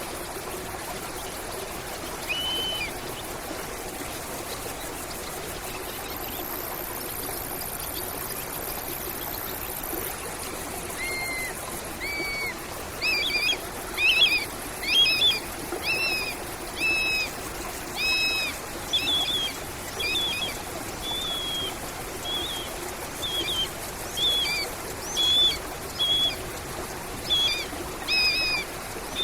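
Stream water running steadily. A songbird gives one short call early, then from about a third of the way in calls over and over in short notes, roughly one a second.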